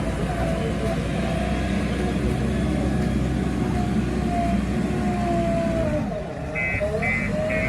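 Diesel engine of a JCB 3DX backhoe loader running under load, with a wavering whine over it. The engine dips and picks back up about six seconds in. Near the end a reversing alarm starts beeping at about two beeps a second.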